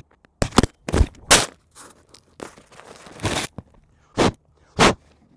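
Footsteps crunching in snow: several uneven steps, with a longer crunching scuff in the middle.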